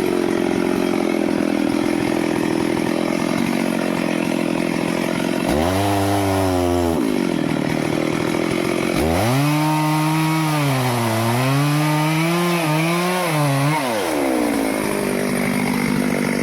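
Stihl chainsaw running at full throttle while cutting teak wood, its engine pitch dipping and recovering several times in the second half as the chain loads up in the cut.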